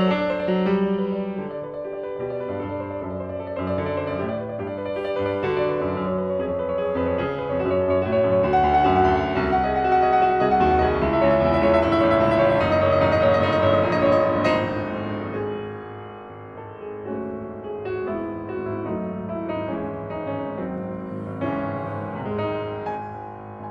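Background piano music, a sequence of sustained chords and melody notes, growing fuller in the middle and softening after about fifteen seconds.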